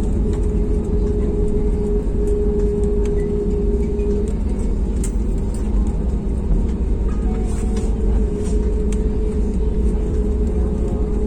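Steady low rumble of an Airbus A320's engines and airframe heard from inside the cabin, with a steady hum over it and a few faint clicks.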